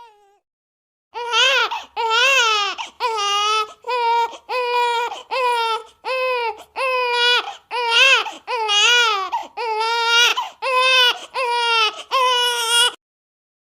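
A baby crying hard in a steady run of loud wails, about one a second with short gasps between, starting about a second in and stopping abruptly near the end.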